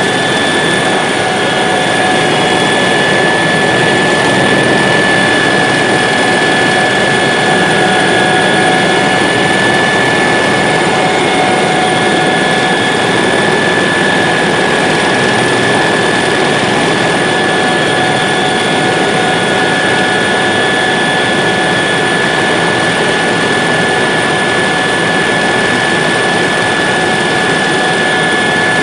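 Helicopter in flight, heard from inside the cabin: loud, steady engine and rotor noise with a high, steady whine running through it.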